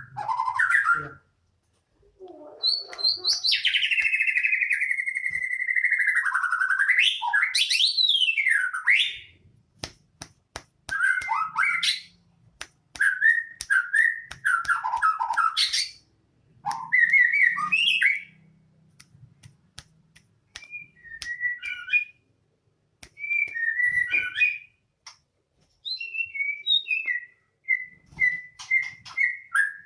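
White-rumped shama (murai batu) singing. It opens with long, gliding whistles, then breaks into short bursts of varied whistled phrases and chatter, with sharp clicks mixed in and brief pauses between bursts.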